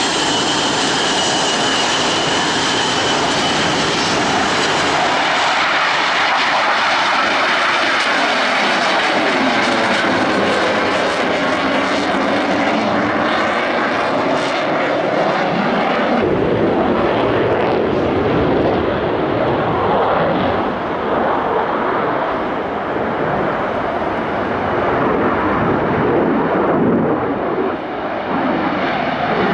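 Loud jet noise from Blue Angels F/A-18 Hornet jets flying overhead. A high whine early on falls slightly in pitch, and the pitch sweeps as the jets pass. The sound changes character about halfway through.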